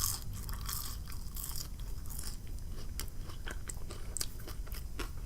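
A person chewing and biting fried food close to the microphone, with irregular crisp crunches and small clicks.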